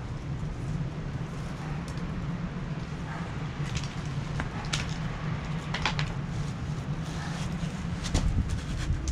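Wood fire burning in a fire pit: scattered crackles and snaps, growing more frequent toward the end, over a steady low rumble.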